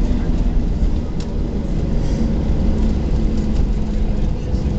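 Cabin noise inside a Boeing 737-700 around landing: a steady low rumble with an engine hum and faint light rattles.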